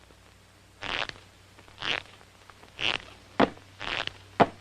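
Cartoon dog sniffing in short hissing puffs about once a second, with sharp ticks joining in after a few sniffs.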